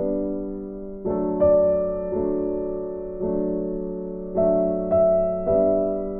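Soft background piano music: slow, sustained notes played one after another, each fading before the next.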